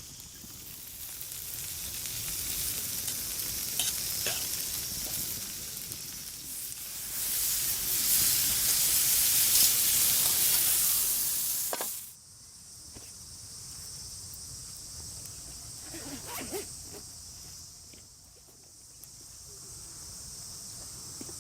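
Steak sizzling over a campfire, a high hiss that grows louder and then cuts off abruptly about twelve seconds in. After that, a steady high insect drone with a few light clicks and knocks.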